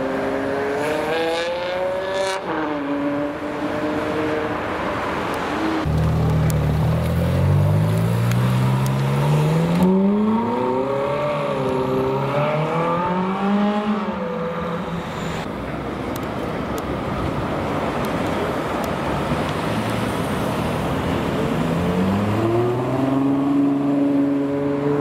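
Supercar engines accelerating away one after another, their notes rising in pitch. A deep, loud engine pulls away about six seconds in and climbs for several seconds, and another rises near the end.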